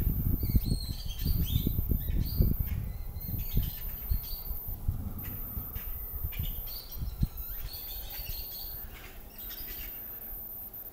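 Many small birds chirping and calling from a tree, over wind buffeting the microphone that eases off toward the end.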